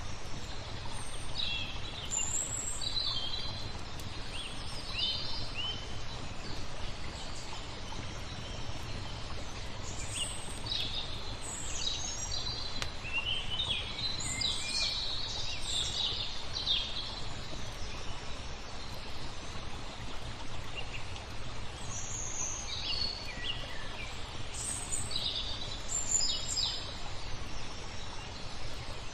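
Small songbirds chirping in scattered bursts of quick high calls, busiest about halfway through and again near the end, over a steady low rushing background noise.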